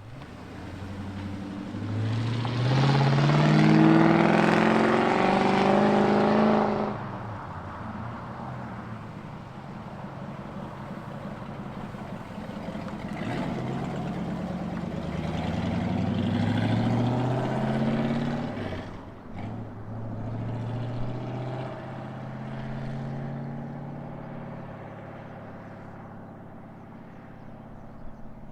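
Muscle car engines accelerating away one after another, each pull rising in pitch as it revs. The loudest pull comes in the first few seconds, a second one about halfway through and a weaker one after about twenty seconds.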